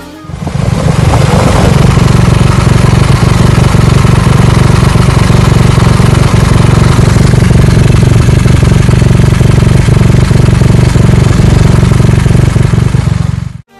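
BMW GS flat-twin motorcycle engine idling steadily, heard close up.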